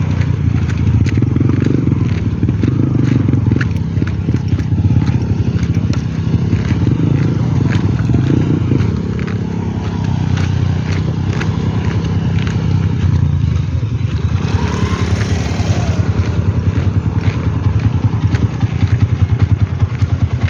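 A vehicle engine runs steadily while driving over rough ground, with frequent knocks and rattles throughout. A brief hissing swell comes about two-thirds of the way in.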